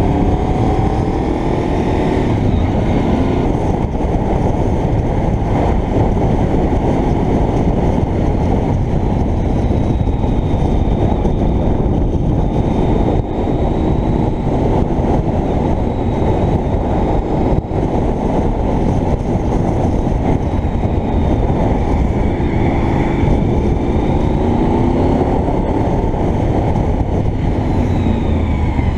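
Honda VFR750's V4 engine running under way, heard through heavy wind rush on a helmet camera; the engine note rises and falls a few times with throttle and gear changes.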